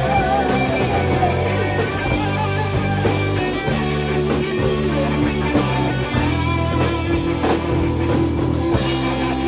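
Rock music with guitar and drum kit: steady bass notes and chords under regular drum hits.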